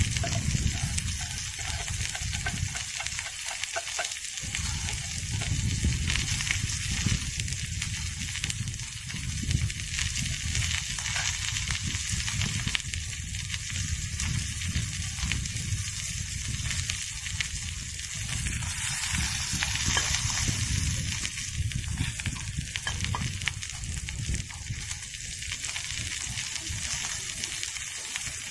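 Food frying in a pan over a campfire: a steady sizzling hiss with scattered small crackles.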